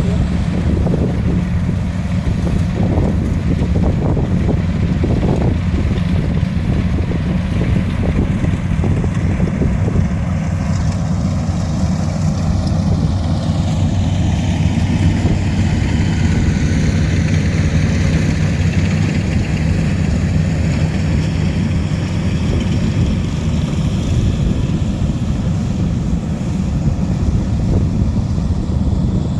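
An engine running steadily close by, with wind buffeting the microphone. A fainter higher whine glides in pitch through the middle.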